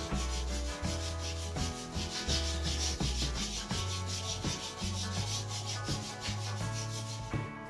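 Sandpaper rubbing along a new wooden snooker cue shaft: a steady rasping with a fast, even rhythm of strokes, easing off just before the end.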